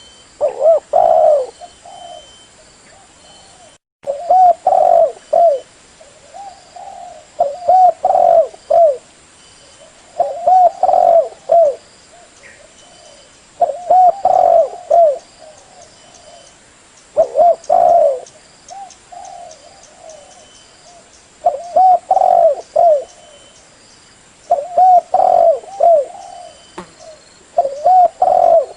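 Spotted dove (tekukur) cooing as a lure call: a phrase of several low coos repeated about every three to four seconds, nine times.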